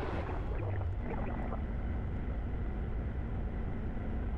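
Steady low drone of a Flight Design light-sport aircraft's piston engine idling at taxi power.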